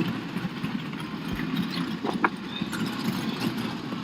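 Big-block Chevy V8 in a Smart car, idling steadily.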